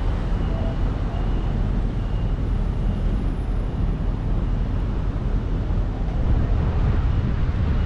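Steady street traffic: the continuous low rumble of passing vehicles.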